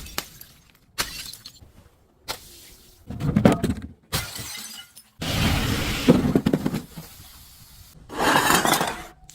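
Glass being crushed and shattering in about five separate crunching bursts, dense with sharp cracks, the loudest about a third of the way in and again just past the middle.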